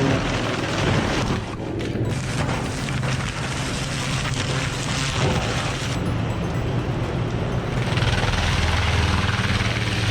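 Heavy off-road truck engine running hard under load, loud and rough, with a steady low rumble under a noisy wash. Background music plays along with it.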